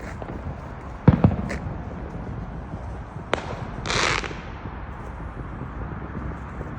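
Fireworks going off: a double bang about a second in, a single sharp crack a little after three seconds, then a short hissing, crackling burst around four seconds.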